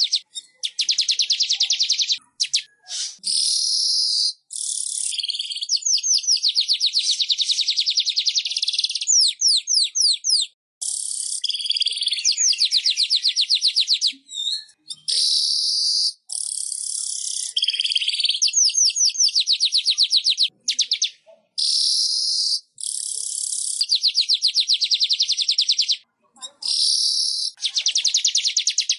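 Weaver bird (manyar) song: high, rapid ticking trills and buzzy chattering phrases, repeated one after another with brief pauses between them.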